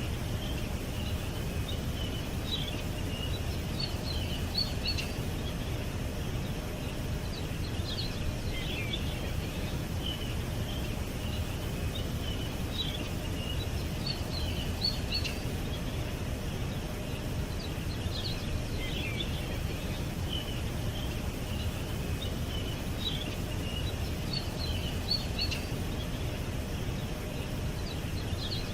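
Small birds chirping and twittering in short bursts every few seconds, over a steady low rumble of background noise.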